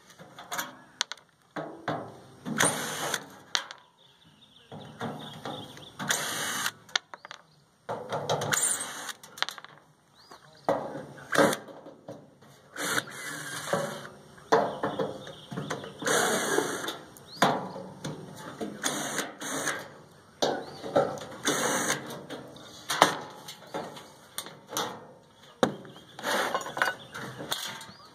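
Power drill running in short, repeated bursts while fasteners on the microwave's sheet-metal case are drilled or driven out to reach the turntable motor, the footage sped up.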